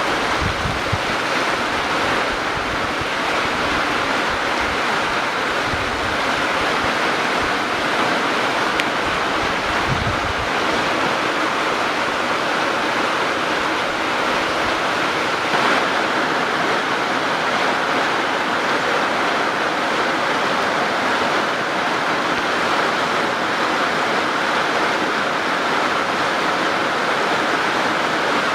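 Steady rushing of moving water, even in level throughout, with wind buffeting the microphone in the first ten seconds or so.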